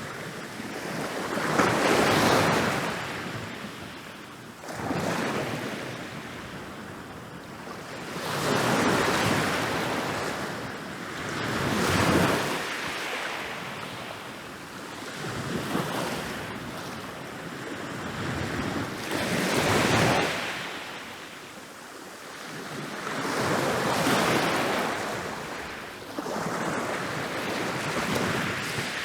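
Ocean waves rolling in and crashing on a beach, the surf swelling and fading about every three to four seconds.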